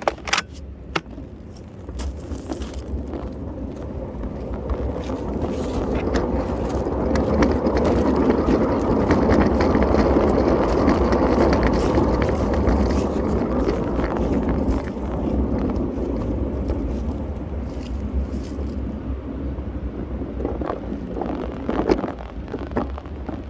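Flat car on a backyard railroad being driven by leaf blowers: a rushing, rumbling noise that builds over several seconds, holds, then fades.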